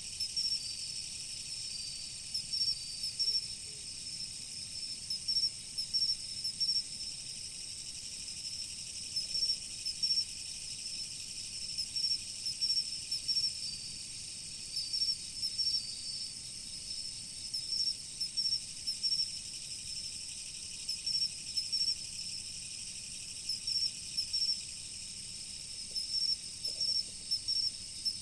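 Autumn crickets chirping: short high trills repeating in clusters every second or two over a steady high-pitched insect chorus, with a faint low rush of river water underneath.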